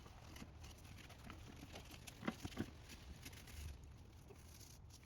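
Near silence with a few faint, short taps, two of them a little over two seconds in.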